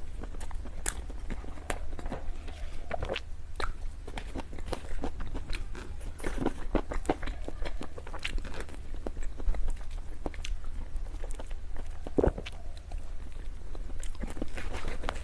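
Close-miked eating of cake and desserts: a person biting and chewing, with many irregular moist clicks and small crunches, over a steady low hum.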